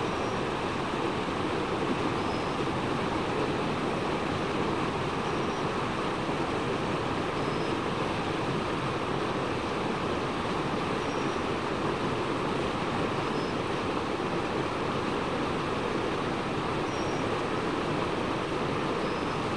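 Steady rush of flowing stream water, with faint short high chirps recurring every two to three seconds.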